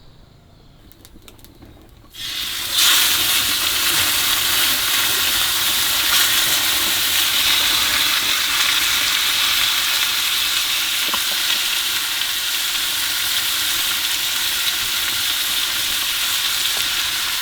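Food hitting hot oil in a pan and frying with a loud, steady sizzle. It starts suddenly about two seconds in, after a few faint clicks.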